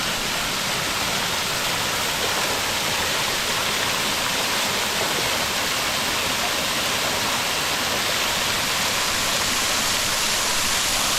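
River water rushing over rocks in a steady, loud roar, like a small waterfall or rapids.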